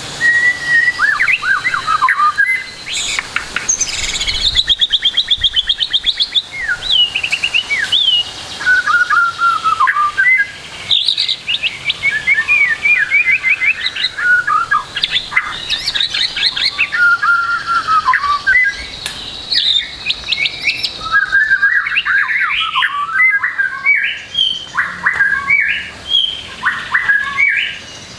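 White-rumped shama (murai batu) singing a long, varied song of rapid chattering trills and whistled phrases with hardly a pause, a repertoire filled with imitations of other birds' calls.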